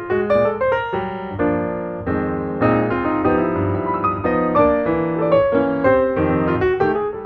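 Background piano music: notes and chords played at a moderate pace.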